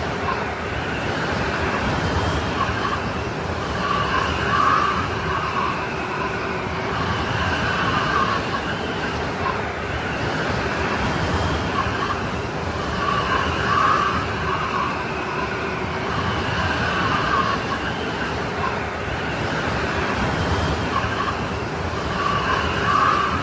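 Strong snowstorm wind blowing in a steady dense rush, with a higher whistling howl that swells and fades every four or five seconds.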